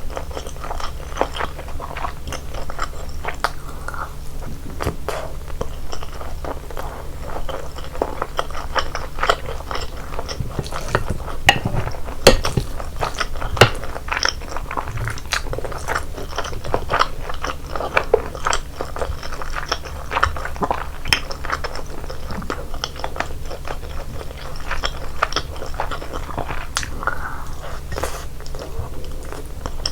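Close-miked mouth sounds of a person eating sauced chicken and rice: continuous wet chewing with frequent crunchy bites, and a couple of sharper, louder bites about twelve and fourteen seconds in.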